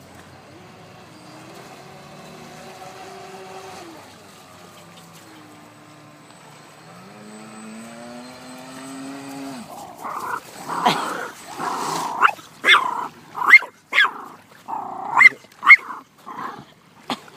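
A dog barking and yipping repeatedly in short, loud, irregular bursts from about halfway through. Before that there is only a faint whine that slowly rises and falls in pitch.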